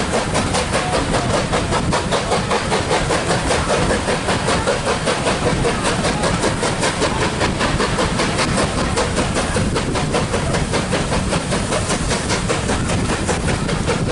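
LMS Black Five steam locomotive 45212 working a train, its exhaust beating evenly at about three to four beats a second over the train's running noise.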